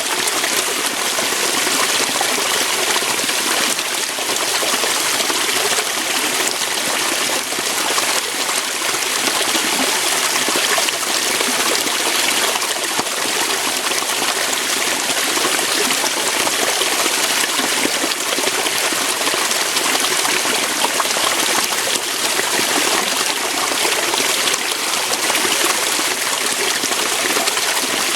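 Water running steadily over rocks, a small waterfall or fast stream splashing and trickling without a break.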